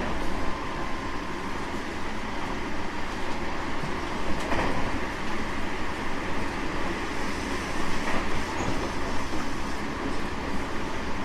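Steady running noise of a JR West 225 series 5000 electric multiple unit, heard from inside the passenger car: an even rumble of wheels on rail, with a couple of brief knocks about four and eight seconds in.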